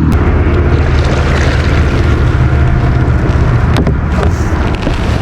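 A steady, loud, low motor-like drone, with a few faint clicks over it.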